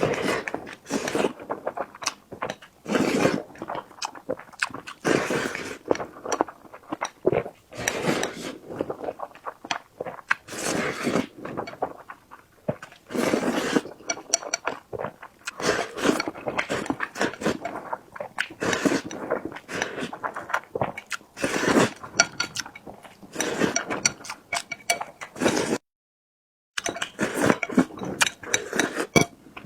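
Close-miked eating: chewing and mouth sounds in irregular bursts with small clicks and clinks. The sound cuts out completely for about a second near the end.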